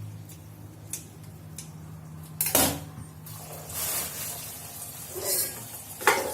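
Kitchen handling sounds over a steady low hum: a few light clicks, a louder knock of dishware about two and a half seconds in, then brief rustling or splashing.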